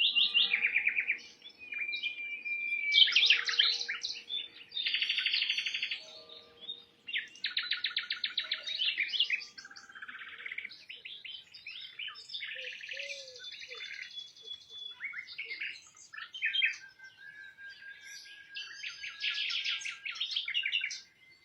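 Small birds chirping and twittering, with rapid trilling bursts of high notes repeating every second or two and some calls overlapping.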